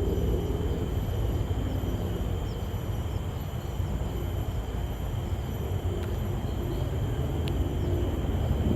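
Outdoor ambience: a steady low rumble with thin, steady high-pitched tones above it and a few faint chirps. There is a single tick about seven and a half seconds in.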